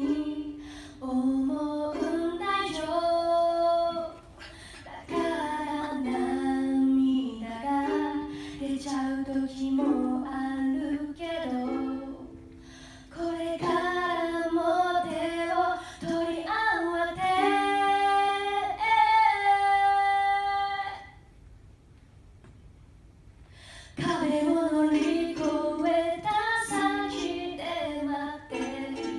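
A woman singing a song solo, held notes moving from pitch to pitch, with a pause of about three seconds about two-thirds of the way through before the singing resumes.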